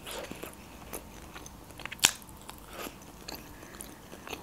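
A person biting and chewing a mouthful of boiled potato, with scattered soft mouth clicks and one sharper click about two seconds in.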